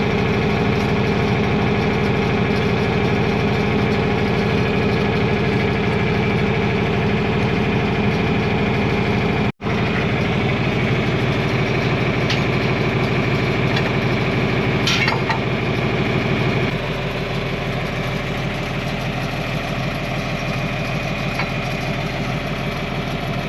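John Deere 4000 tractor engine idling steadily. The sound drops out for an instant about halfway through and turns a little quieter about 17 seconds in.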